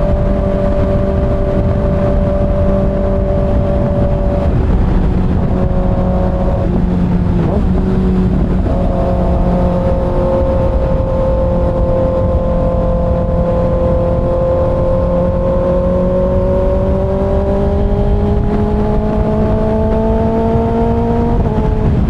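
Kawasaki ZX6R's 636 cc inline-four engine at freeway cruise, a steady tone over heavy wind rush. The engine note breaks briefly about seven seconds in, climbs slowly over the last several seconds, and drops just before the end.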